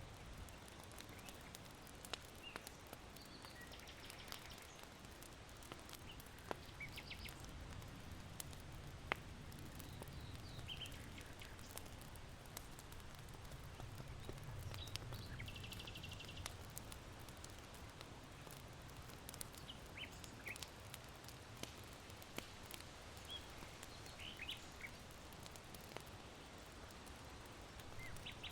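Quiet ambience of charcoal crackling in an irori hearth, with sharp pops every few seconds. Small birds give short chirps and trills at intervals, and a low wind rumble swells in the middle.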